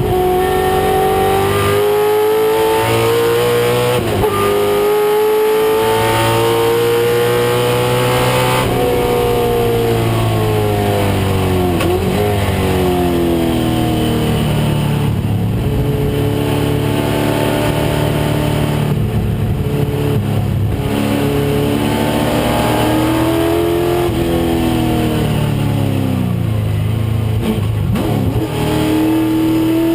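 1996 Ford Mustang race car's engine pulling hard at high revs. Its pitch climbs under acceleration and drops back several times, with gear changes and braking.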